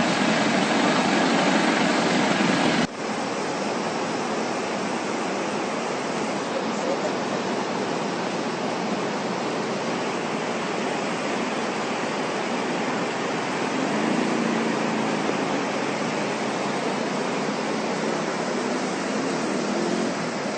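Steady rush of floodwater, a torrent from heavy rain. About three seconds in it cuts abruptly to a slightly quieter stretch of the same rushing noise.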